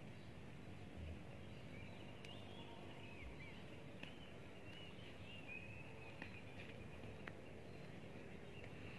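Faint bird song: a warbling run of rising and falling notes from about two to six seconds in, over a low steady outdoor hiss with a few light clicks.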